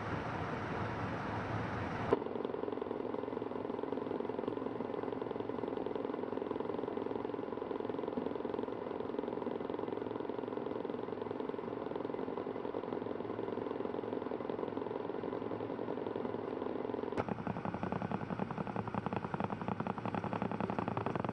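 Mitsubishi Canter light truck running, a steady hum of engine and road noise. The sound changes abruptly twice, about two seconds in and again near the end, as at cuts between clips.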